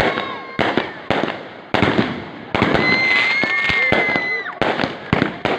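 Aerial fireworks going off: a rapid series of sharp bangs and crackles, with a long high whistle lasting about two seconds from near the middle.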